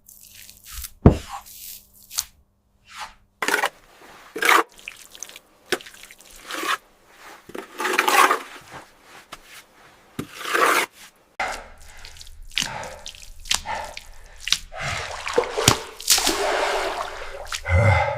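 Irregular scrapes and knocks of hand work, with water dripping.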